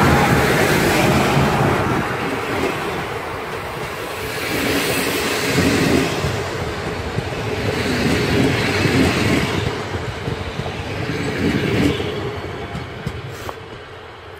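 Passenger train passing close by: an electric locomotive, then a string of double-deck coaches, with loud wheel-on-rail rumble that swells and eases as the cars go by. Near the end it fades as the train draws away.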